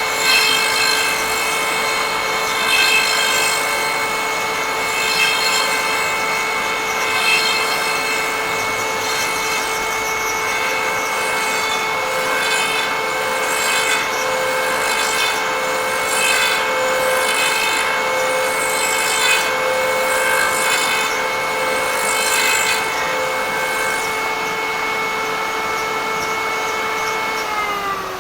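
High-speed cutter motor on a lathe threading jig running with a steady high whine while it cuts threads into a wooden box, a rasping cut swelling about every two seconds. Near the end the motor is switched off and its whine falls as it spins down.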